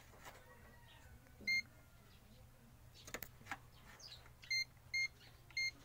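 Digital multimeter beeping in capacitance mode: four short, high beeps, one about a second and a half in and three in quick succession near the end, with a few light handling clicks.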